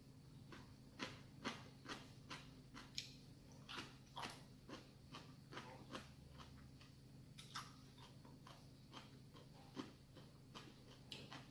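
Faint close-up chewing while eating ramen noodles: a run of soft, irregular mouth clicks, thicker in the first half and picking up again near the end.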